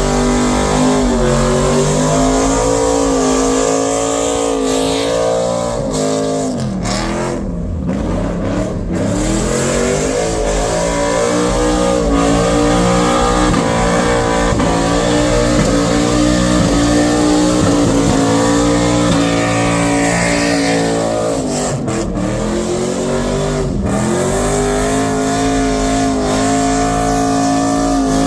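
Car engine revving hard and held at high rpm, the note dipping briefly and climbing back twice.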